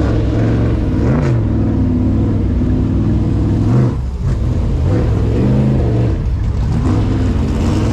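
Car engine running, its pitch rising and falling back several times as it revs or picks up speed.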